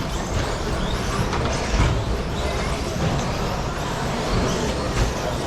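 A pack of electric RC short course trucks with 13.5-turn brushless motors racing on a carpet track: a steady mix of motor whine and tyre noise, with faint rises and falls in pitch as the trucks speed up and slow down.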